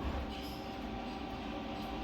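Steady low machine hum with a faint steady whine above it, and no strikes.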